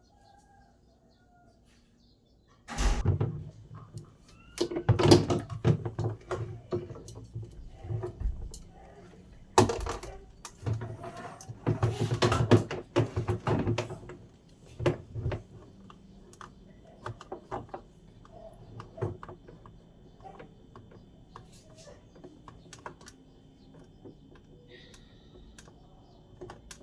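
A run of loud knocks and clattering thumps from about three seconds in to about fifteen seconds, as of hard parts being handled and set down. Lighter scattered clicks follow, and a cat meows near the end.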